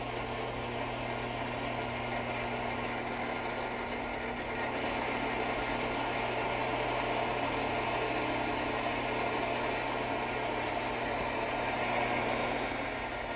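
Vintage 1960s–70s two-tube electric heater running with both settings switched on: a steady electrical hum under a dense, even noise that grows a little louder about four seconds in and eases near the end.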